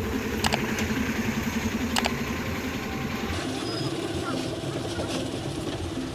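Heavy truck's diesel engine running steadily, with two sharp clicks in the first two seconds.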